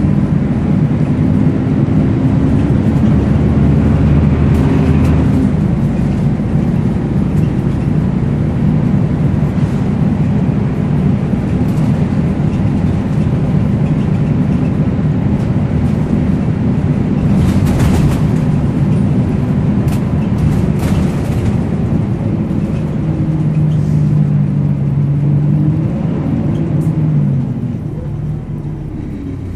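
Volvo B10BLE bus's six-cylinder diesel engine running under way, heard from on board, its pitch shifting as it changes speed and gear. Short rattles and knocks come through about halfway in.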